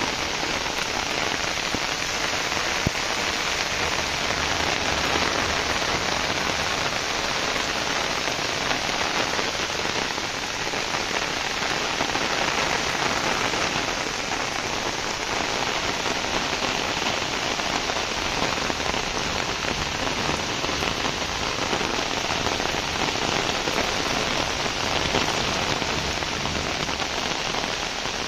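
Heavy downpour falling steadily on a rooftop garden, an even hiss of rain that holds without a break.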